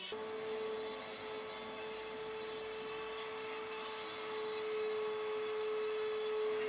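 A small power tool running at a steady pitch, with the scratchy hiss of abrasive working rusty metal.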